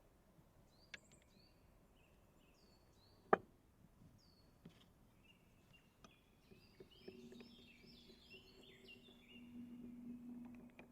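Small birds chirping with short falling notes, busiest in the second half, with one sharp knock about a third of the way in. A low steady hum comes in about two-thirds of the way through and grows slightly louder.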